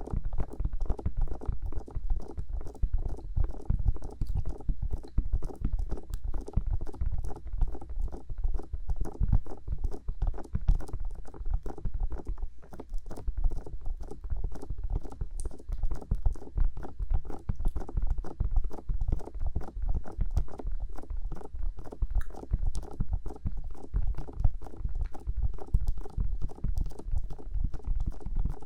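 Bare fingertips tapping rapidly and continuously on the silicone ears of a 3Dio binaural microphone, many soft taps a second with a deep thud in each.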